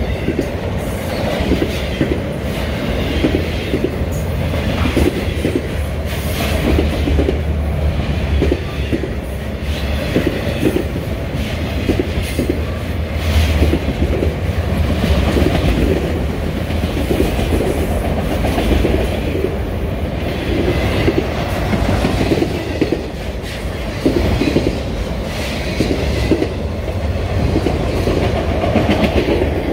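A train passing close by on the Union Pacific Geneva Subdivision, its wheels clacking rhythmically over the rail joints under a steady low rumble.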